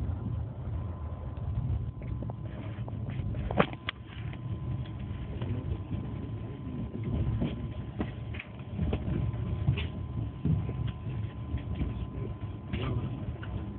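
Passenger train running at speed, heard from inside the coach: a steady low rumble with a few sharp clanks, the loudest about three and a half seconds in.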